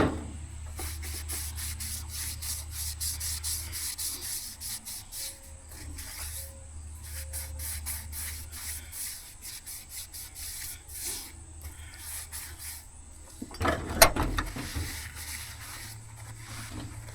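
Quick, repeated rubbing strokes of metal being scrubbed clean on the inside of a haybine part, with one sharp knock about fourteen seconds in.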